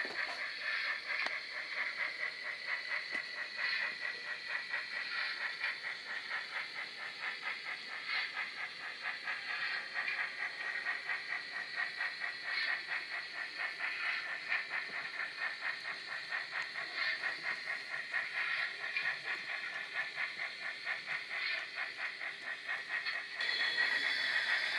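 Model of the Bavarian Gt 2×4/4 steam locomotive running on a model railway: steam hiss with fast, rhythmic chuffing and track clicking. It turns louder near the end.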